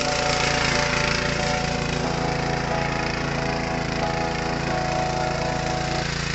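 Petrol engine of an 8 hp mini rotary cultivator running steadily at an even speed.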